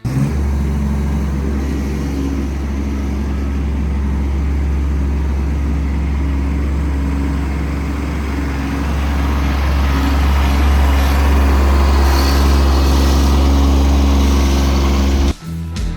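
Kubota B2301 compact tractor's diesel engine running steadily under work, getting somewhat louder in the second half, then cut off abruptly near the end.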